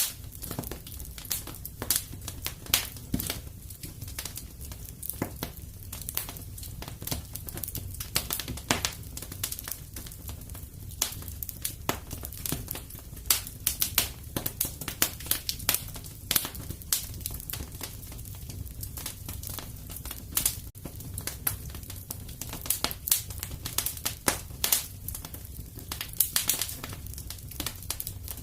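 Fireplace fire crackling steadily, with many irregular sharp pops and snaps over a low, even rumble.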